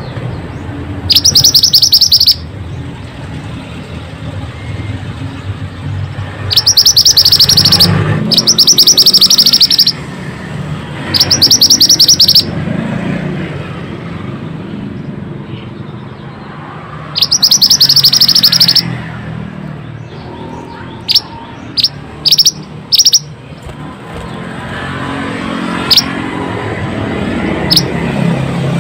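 Mantenan songbird calling: five loud, high, rapid trills of about a second each, followed by a run of short, sharp single chirps in the last third, over a low background rumble.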